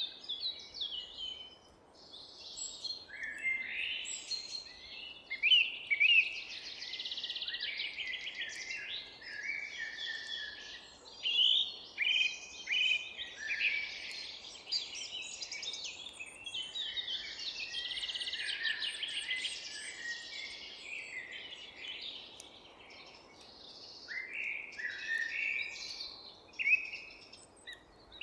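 Several songbirds chirping and singing over one another in a dense, continuous chorus of short calls and trills, thinning briefly near the start and again about three-quarters through. A faint steady low background noise lies under the birdsong.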